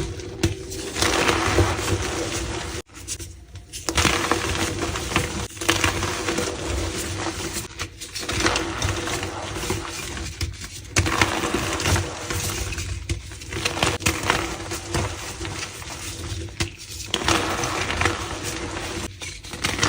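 Green gym-chalk balls crushed and squeezed by hand, giving a gritty, powdery, squeaky crunching. It comes in repeated squeezes, with brief pauses every two to three seconds.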